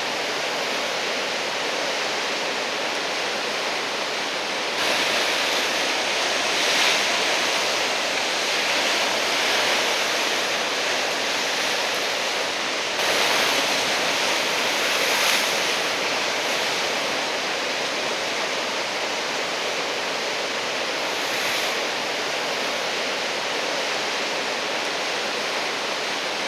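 Heavy ocean surf from a typhoon swell: a steady rush of breaking waves, swelling louder twice as big waves break.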